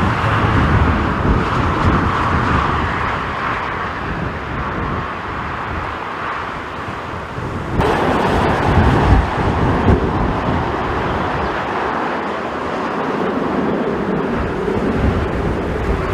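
Strong wind buffeting the microphone over the distant engine noise of jet airliners. The sound shifts abruptly about eight seconds in, where one recording cuts to another.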